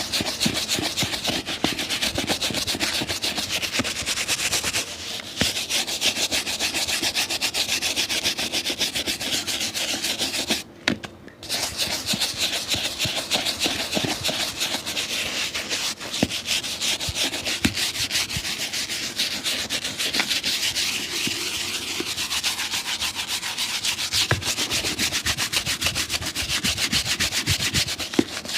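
A shoe being rubbed by hand with fast, even back-and-forth strokes, which stop for about a second near the middle.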